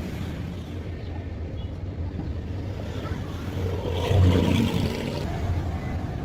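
A steady low mechanical rumble, like an engine running, with a louder swell about four seconds in.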